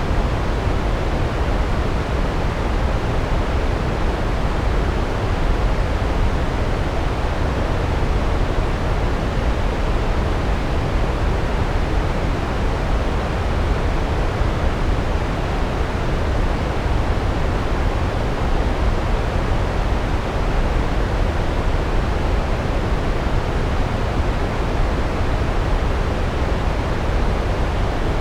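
Large waterfall, water pouring down onto rocks in a steady, loud rush.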